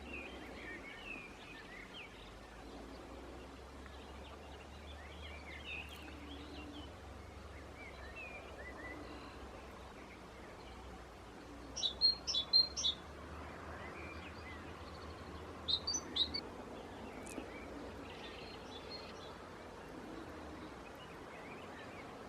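Small birds chirping steadily, broken twice by a loud cluster of quick, harsh calls from a common pheasant: one about halfway through and a shorter one a few seconds later.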